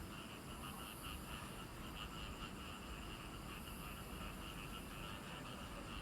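A chorus of frogs calling, a steady run of quick, pulsing croaks that overlap without a break.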